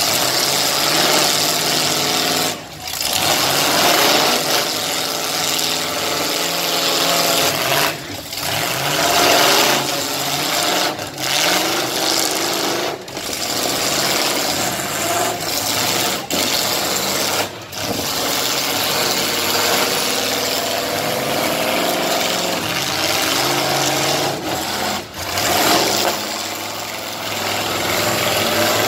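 Several demolition-derby cars, SUVs and trucks running their engines hard, the engine pitch rising and falling with the revs, loud throughout.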